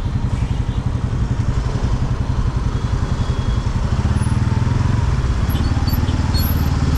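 Motorcycle engine running while riding, a steady pulsing low note that gets a little louder about four seconds in.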